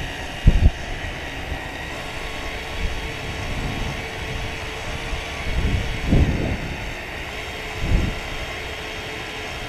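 Steady background rumble, like distant traffic or a passing aircraft, with a faint held hum. Short low thumps come about half a second in, around six seconds and around eight seconds.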